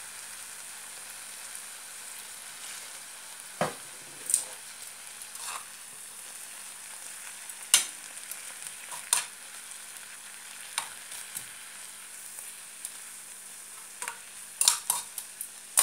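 Kangkong (water spinach) with onion and garlic sizzling steadily in hot oil with vinegar and soy sauce added. Metal tongs stir it and click sharply against the pan now and then, several times in quick succession near the end.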